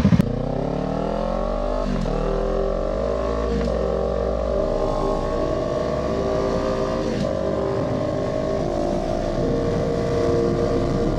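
Kawasaki Ninja 500 SE's parallel-twin engine accelerating through the gears, its pitch rising and dropping at three upshifts, then settling into a steady cruise, with wind and road noise underneath.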